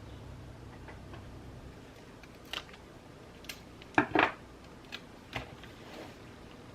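Scissors snipping paper: a handful of short, crisp snips and clicks, the loudest two close together about four seconds in.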